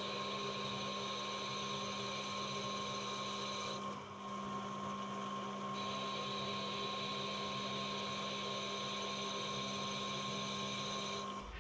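Metal lathe running steadily under power feed during a thread-cutting pass, with a constant motor and gear whine. A higher part of the whine drops out for about two seconds midway.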